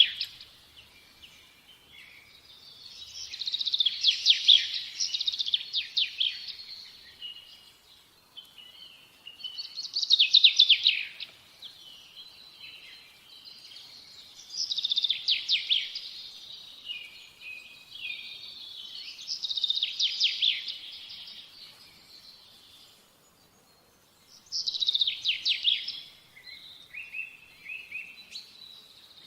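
A songbird singing, repeating a short phrase of rapid, high notes with a few lower trailing notes, about every five seconds.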